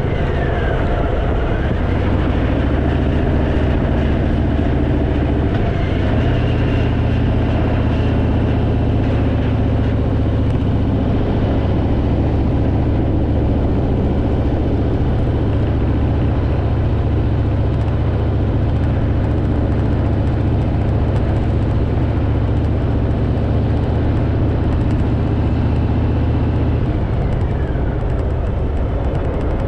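Harley-Davidson V-twin motorcycle engine running steadily while riding, heard from the bike with wind noise, its note shifting a few times.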